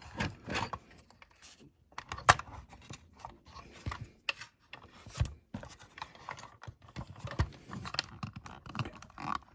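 Irregular small clicks, creaks and scraping as a plastic base is worked loose from a diecast toy car's metal body, with one sharp click about two seconds in.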